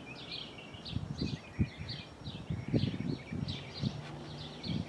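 Small birds chirping and twittering over and over, with irregular low knocks and rustles close to the microphone.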